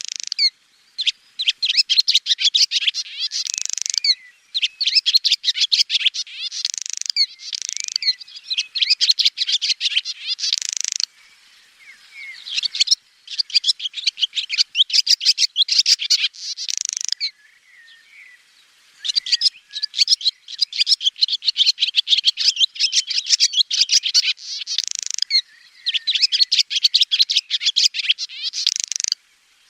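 Swallow twittering: runs of rapid, high chirps a few seconds long, with short pauses between them and a sparser, quieter stretch in the middle.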